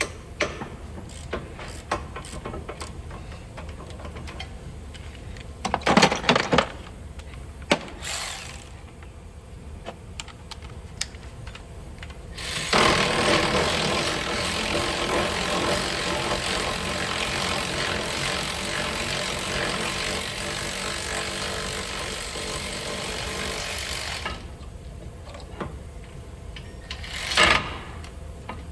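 A power tool runs in one long, steady burst of about twelve seconds, the loudest sound here. Before and after it come scattered clicks and knocks of hand tools on metal.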